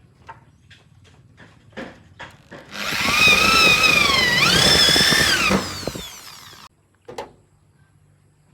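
Handheld electric power tool running for about three seconds. Its whine sags in pitch as it takes load, recovers, then winds down and stops. Light knocks come before it, and a single knock after.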